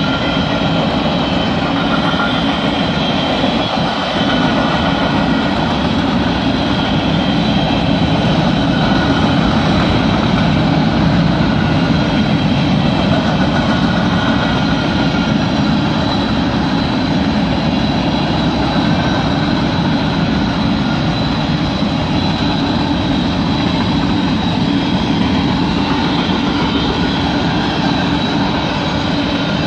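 Covered hopper cars of a grain train rolling past: steady wheel-on-rail noise, with faint high ringing tones that come and go.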